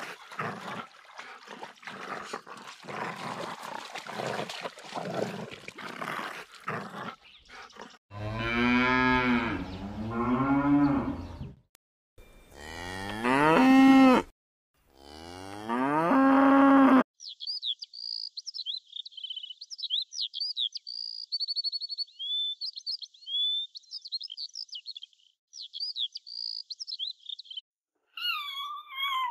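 Cow mooing: about four long, low moos, each rising in pitch, that begin about 8 seconds in after several seconds of crackling, rustling noise. High, rapid peeping chirps follow, and a sweeping cat-like call begins near the end.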